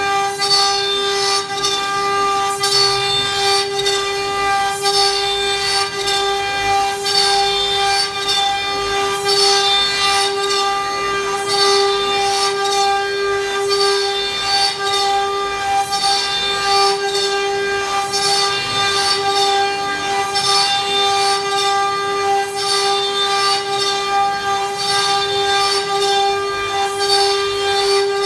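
CNC router spindle running steadily with a high whine while it surfaces wood. A hissing cutting noise swells and fades about once a second.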